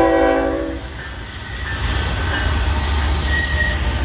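A short train horn blast, a chord of steady tones lasting under a second, followed by the rumble of a train rolling along the rails, with a faint high wheel squeal about three seconds in.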